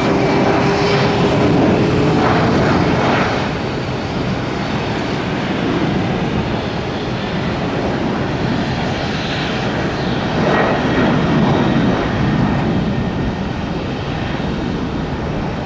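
Jet airliner engines at takeoff thrust: a loud, steady rush of jet noise, with a thin whine rising slightly over the first couple of seconds and a swell in loudness about ten seconds in.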